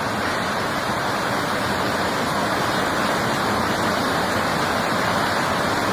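Fast-flowing flash-flood water rushing in a steady, loud torrent.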